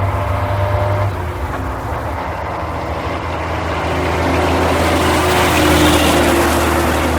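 Racing truck engine running with a steady low tone that dips slightly about a second in, then grows louder with added rushing noise from about four seconds in, loudest near six seconds.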